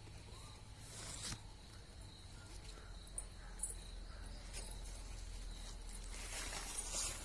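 Faint outdoor garden sound: soft rustling and scattered small clicks, with a few brief high chirps about three seconds in and a louder swell of rustling near the end.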